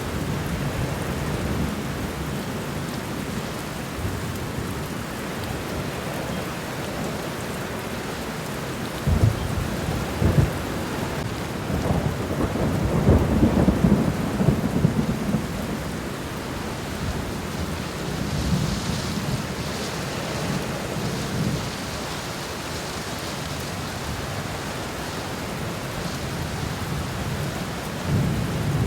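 Steady rain falling on the ground and garden plants, an even hiss, with deep low rumbles swelling up several times, the loudest about halfway through.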